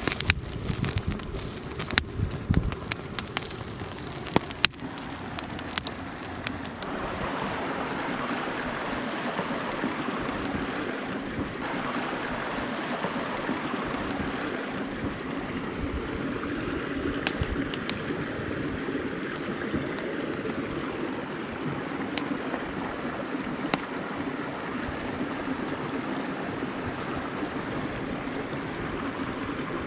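Mountain stream rushing steadily. Sharp crackles and pops stand out over it in the first few seconds before the water alone carries on.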